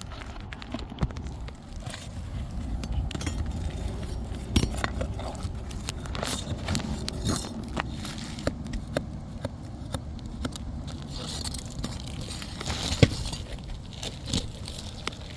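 Scattered clicks, taps and scrapes from handling asphalt roof shingles and tools, with one sharper knock about 13 seconds in, over a steady low rumble.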